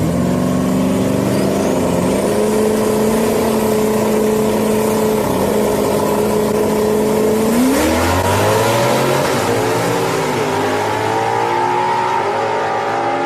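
Ford Mustangs racing at full throttle, a naturally aspirated car against a twin-turbo car: loud engines come in suddenly, one note rises and then holds steady for several seconds, and about eight seconds in engine notes climb again, rising several times.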